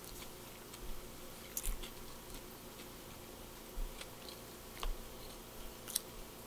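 A person chewing a mouthful of bacon cheeseburger, faint, with a few soft mouth clicks and smacks scattered through.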